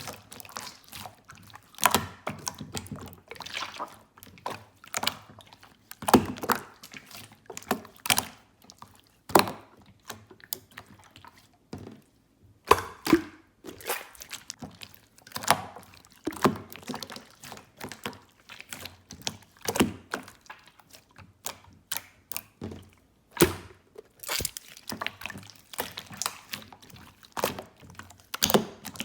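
Slime being squished, folded and pressed by hand, giving a run of irregular wet clicks, pops and squelches, a few each second.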